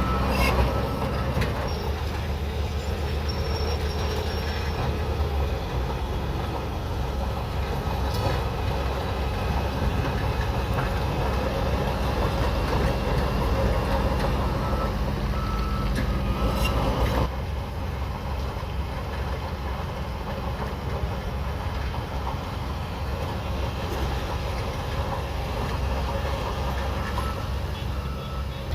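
Shantui DH17C3 bulldozer's diesel engine working steadily under the clank and rattle of its steel tracks, with a reversing alarm beeping in short runs near the start, around the middle and near the end. The noise eases slightly about two-thirds of the way through.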